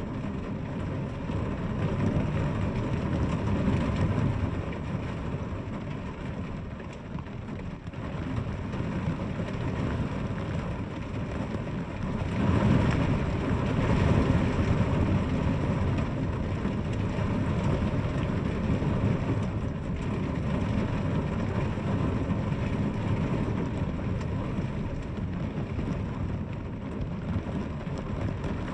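Steady rain falling, a dense even wash with a deep rumbling undertone that swells twice, a couple of seconds in and again about halfway through.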